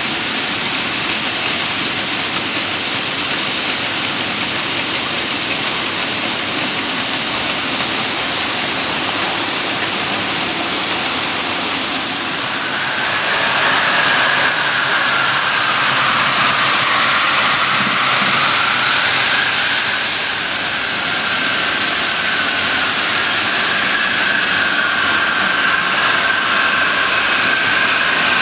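Model Class 47 locomotive hauling a long train of coaches round a model railway track, with a steady rolling rattle of wheels on rail. About twelve seconds in it gets louder and a motor whine joins, dipping in pitch and then rising again as the train passes close.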